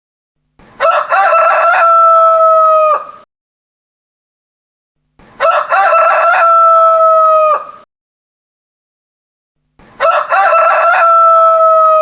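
A rooster crowing three times, about four and a half seconds apart. Each crow starts with a few broken notes and ends in a long held note that drops off at the end.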